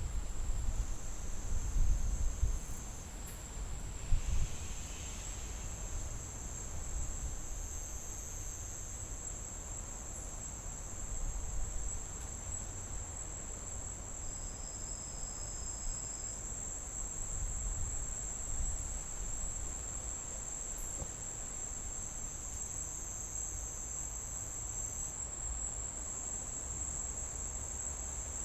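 Crickets chirring steadily in a continuous high-pitched trill. A low rumble underneath is loudest in the first few seconds, then settles.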